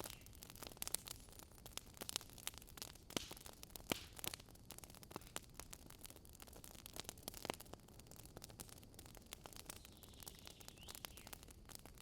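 Wood campfire crackling: irregular sharp snaps and pops, a few louder than the rest, over a low steady hiss of the burning fire.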